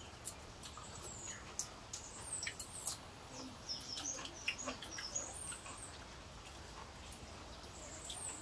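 Small birds chirping in short, high twitters that rise and fall, clustered in the middle. Faint scattered clicks from people eating by hand are mixed in.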